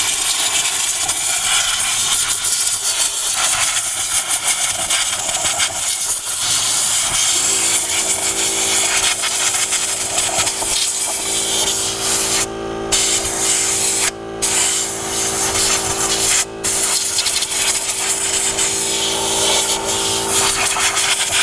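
Air blowing hard to clear dirt from around the fuel pump access cover, a loud steady rush of air. A steady motor hum joins about seven seconds in, and the air cuts out briefly three times midway.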